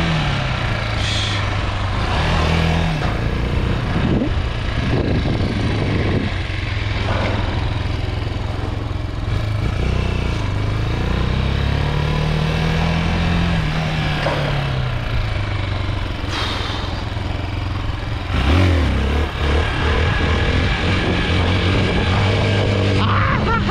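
Chinese 250 dirt bike's single engine running under way, revving up and easing off in slow swells as it is ridden. The owner complains it lacks the power to lift the front wheel and bogs.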